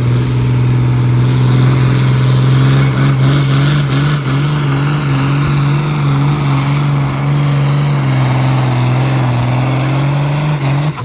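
A pulling vehicle's engine runs loud at high, nearly steady revs under load during a pull, its pitch wavering slightly. It stops suddenly near the end.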